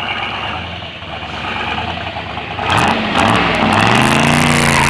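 Corvette Sting Ray's V8 running at low revs, then from about two and a half seconds in revved hard and louder, its pitch swinging up and down several times as the car pulls away.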